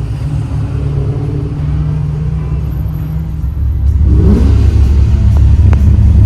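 Car engine running loud and low, growing louder about four seconds in.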